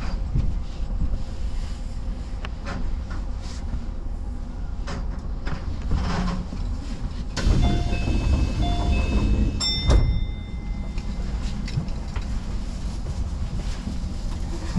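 Commuter train standing at a station platform with a steady low rumble from its equipment. A short run of electronic beeps sounds about eight seconds in, then a sharp knock with a brief ringing tone about ten seconds in.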